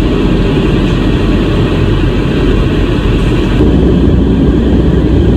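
A truck driving at highway speed: steady engine and road noise, growing slightly louder about three and a half seconds in.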